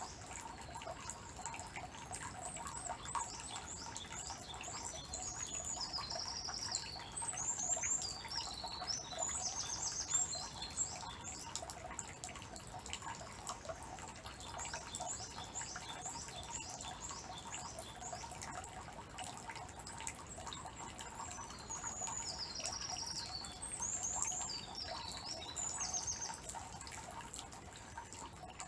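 Water trickling and dripping steadily into the stone basin of a Shinto shrine's purification fountain (temizuya). A small songbird sings two spells of quick, high repeated notes, the first about a quarter of the way in and the second in the last third.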